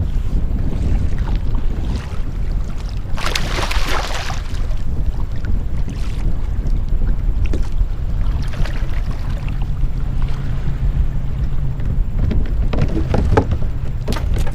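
Wind buffeting the microphone on a kayak, a steady low rumble, with a brief louder rush of noise about three seconds in and a few sharp knocks near the end.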